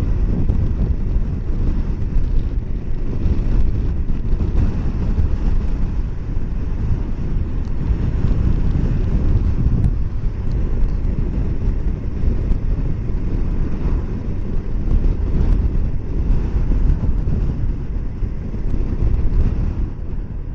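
Strong wind buffeting the microphone of a rider on a moving motorcycle, a loud steady rumble that covers the engine and road noise beneath it.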